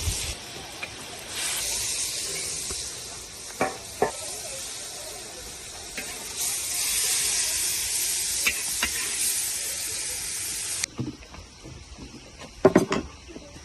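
Steady hissing noise with a few light knocks, which cuts off abruptly about eleven seconds in; a couple of louder knocks follow near the end.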